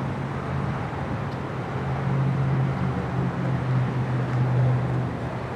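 An engine running steadily with a low hum over a rumbling noise, swelling slightly in the middle and easing near the end.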